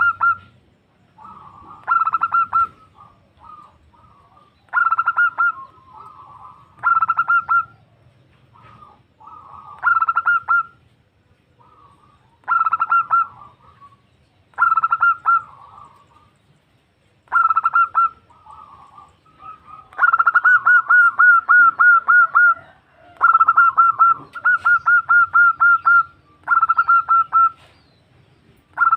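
Female zebra dove (perkutut) calling to a male: short phrases of rapid staccato coos repeated every two seconds or so. About two-thirds of the way through come longer runs of quick notes.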